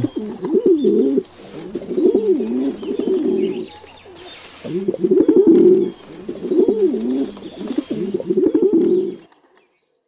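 Pigeon cooing: about four phrases of low, wavering coos with short pauses between them, stopping about nine seconds in.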